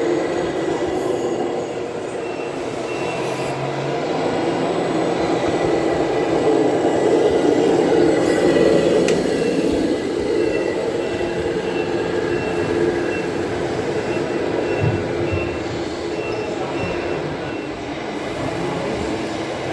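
1/14th scale radio-controlled trucks running, a steady mechanical hum and whine from their motors and drivetrains. A high, evenly repeated beep like a reversing alarm sounds briefly near the start and again for much of the second half.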